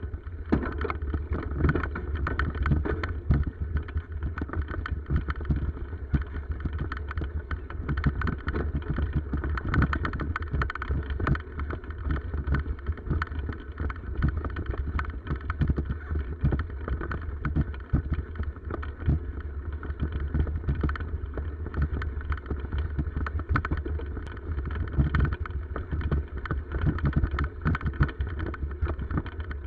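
Bicycle being ridden over a rough track: steady wind rumble with frequent small rattles and jolts from the bike.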